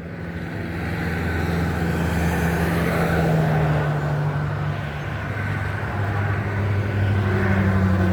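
A motor vehicle's engine running with a steady low hum, growing louder over the first second and then holding on with slight shifts in pitch.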